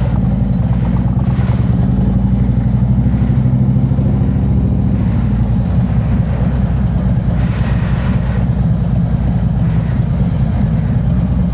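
Harley-Davidson Road King Special's V-twin engine running as the motorcycle rides along, a steady low engine note that is a little fuller around two to four seconds in.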